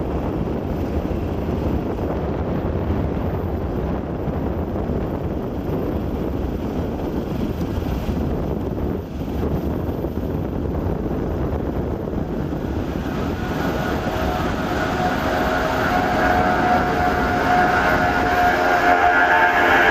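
Steady rushing roar of an Airbus A340 airliner's jet engines and airflow. From about two-thirds of the way in, a set of steady tones swells louder over it.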